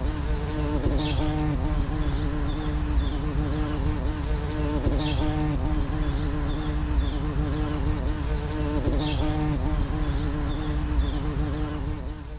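Steady insect-like buzzing, with a short high chirp that repeats about every four seconds.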